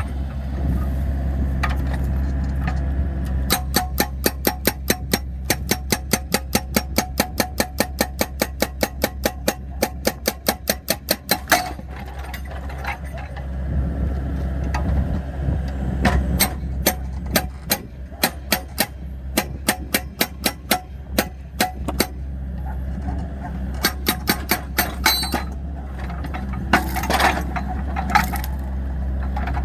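Excavator's engine running steadily. Over it, a fast, even run of sharp clicks, about five a second, lasts several seconds; sparser clicks follow, and a few louder knocks come near the end.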